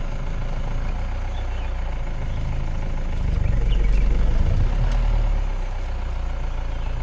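Vehicle engine running with a steady low rumble that grows louder for about two seconds in the middle, then settles back.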